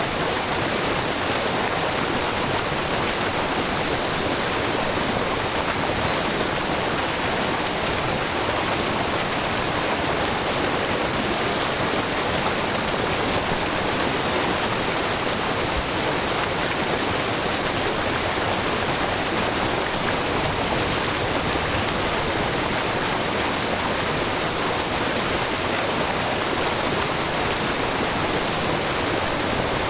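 Shiraito Falls, a low, wide curtain of spring water falling over rock, splashing steadily into a brook, with a constant even rush of water.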